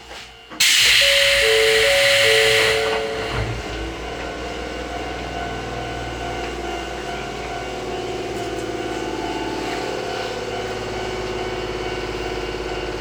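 Electric train's pneumatic air hiss starting suddenly and lasting about two seconds, with a few short beeping tones over it. The train's running noise and motor hum follow, steady with a slowly rising pitch as it gets under way.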